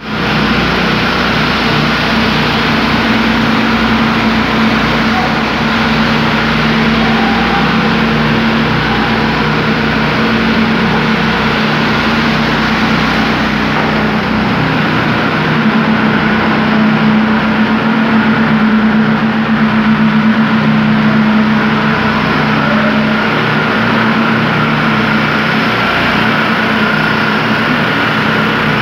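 Engine of concrete-pouring machinery running steadily, a constant hum with an even rush of noise over it.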